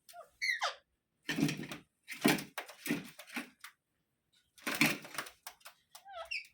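Alexandrine parakeet calling: a quick squeaky glide about half a second in and another near the end, with several short, harsh, raspy calls between them.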